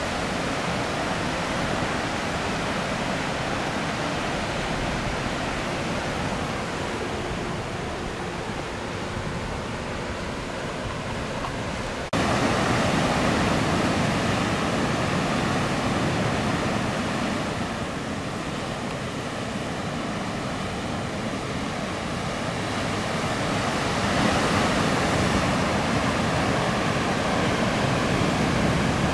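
Steady noise of large typhoon-swell waves breaking in the surf. It becomes abruptly louder about twelve seconds in.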